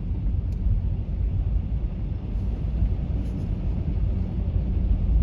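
Car driving, with a steady low rumble of engine and road noise heard inside the cabin.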